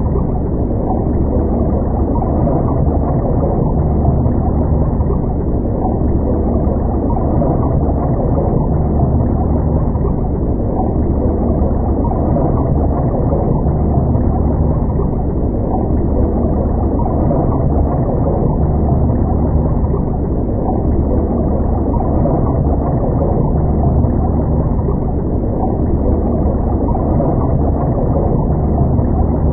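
Steady, muffled low rumble with a deep hum, heard underwater, with nothing above the middle range. It holds at an even level throughout.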